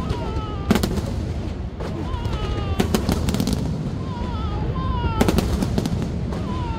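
Aerial fireworks shells bursting: sharp bangs over a continuous low rumble of booms, with a cluster of bangs close together about five seconds in.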